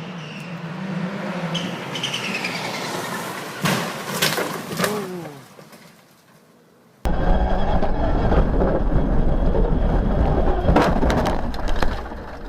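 Rally car engine note falling in pitch, then two sharp crash impacts about four and five seconds in, and the sound dies away. After an abrupt cut, a loud steady low rumble of a car at speed runs on, with some rattling clatter near the end.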